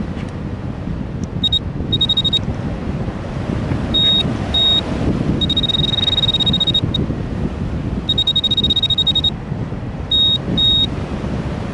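Electronic beeping at one high, unchanging pitch, in a broken pattern of short beeps and longer held tones. Heavy wind rumble on the microphone runs underneath.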